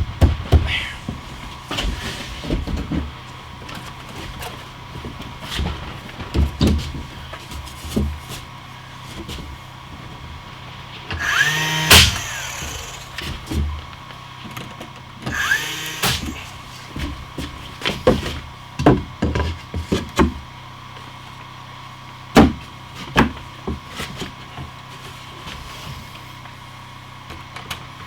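Wooden boards being handled and knocked into place, with scattered knocks and thuds, and a power drill running in two short bursts a little before and after the middle.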